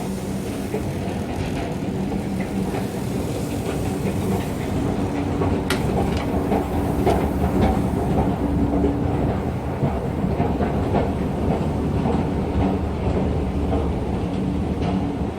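Train running on rails: a steady low rumble with a motor hum and scattered clicks, growing a little louder around the middle.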